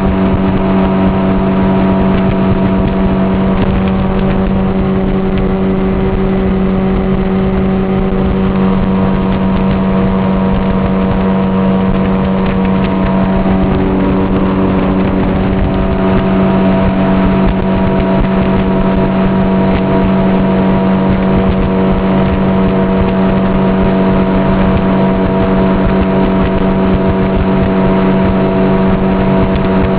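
Fishing boat's motor running at a steady cruising speed, an even engine hum with a strong low tone over rushing noise.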